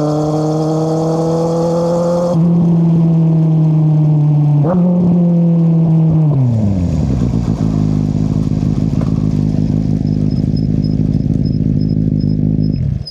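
2013 Kawasaki Z800's inline-four running through an Akrapovic exhaust with the dB killer removed: it pulls with slowly rising revs, changes gear with a short dip about five seconds in, then the revs fall away and it settles into a loud, uneven idle. The engine is switched off suddenly near the end.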